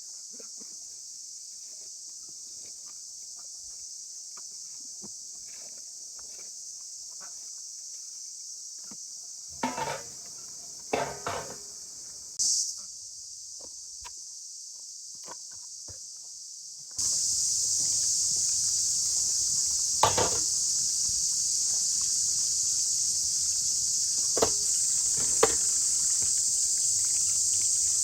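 Steady high-pitched chorus of insects, which becomes louder partway through, with a few scattered knocks and clicks.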